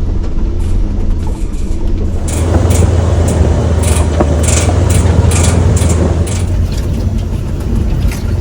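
Old tow truck driving slowly down a rough trail, its engine and cab giving a loud, steady low rumble. From about two seconds in, a run of rattles and knocks sounds over it for several seconds.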